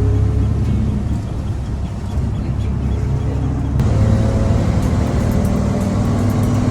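A vehicle's engine running steadily, a low rumble with a faint hum. The sound changes abruptly about four seconds in and carries on much the same.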